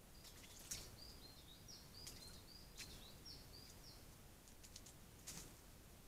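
Faint songbird song: a phrase of short high chirping notes for the first four seconds or so, with four sharp clicks scattered through it.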